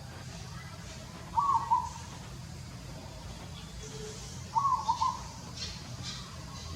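An animal call repeated twice, about three seconds apart: each a short tonal call of a few quick notes, with a steady low hum underneath.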